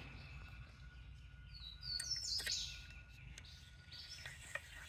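Birds chirping, a short cluster of high chirps about two seconds in, over faint ticks from a hand-turned Timberline chainsaw sharpener's carbide cutter grinding into a chain tooth.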